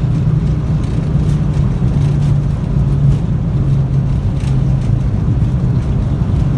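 Steady low drone inside an airliner's cockpit, the engines and airflow, with a few faint knocks.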